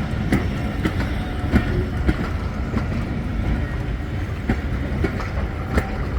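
Diesel-hauled heritage train running along the track: a steady low rumble with irregular sharp clicks and knocks from the wheels on the rails.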